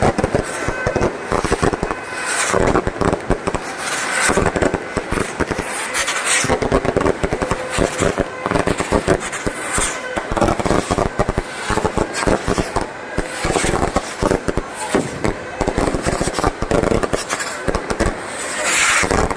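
Fireworks and firecrackers going off in a dense, continuous crackle of rapid bangs.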